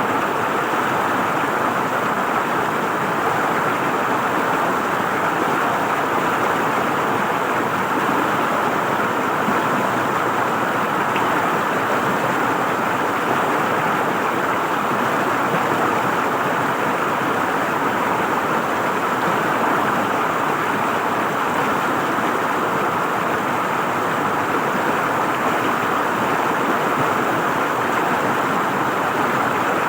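River water flowing and gurgling over rocks in a steady, even rush.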